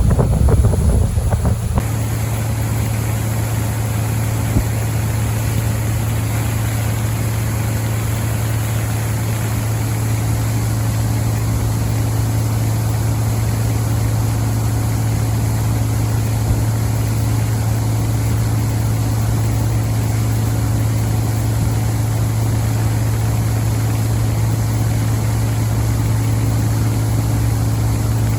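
Tour boat's engine running at a steady speed with a constant low hum. Wind buffets the microphone for the first two seconds.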